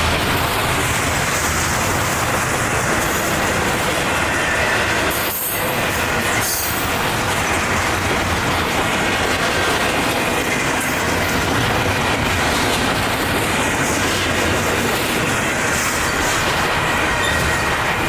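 Freight train cars rolling past close by, a steady wheel-on-rail din with some wheel squeal.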